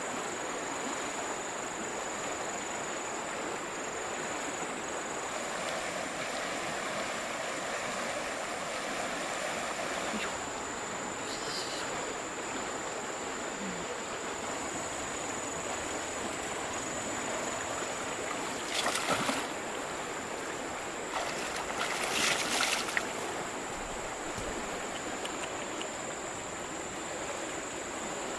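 River water flowing with a steady rush, broken by two brief, louder noisy bursts about two-thirds of the way through.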